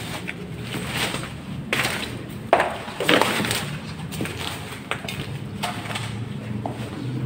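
Irregular crunching and cracking of footsteps over loose debris on the floor, with a few sharper cracks about a third of the way in.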